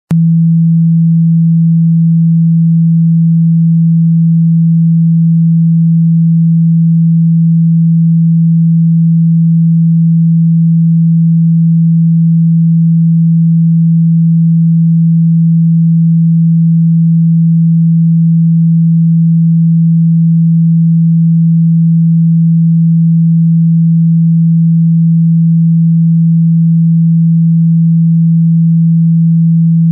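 A steady, loud 165 Hz sine tone, played to vibrate a phone speaker and drive water and moisture out of it.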